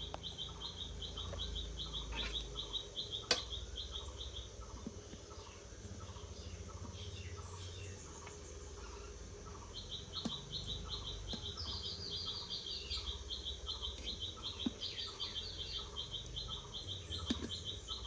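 Insects chirping in a fast, even pulsing train, about five pulses a second, that stops after about four seconds and starts again near ten seconds. Under it a slower call repeats about twice a second over a low rumble, with a few higher chirps in the second half and one sharp click a few seconds in.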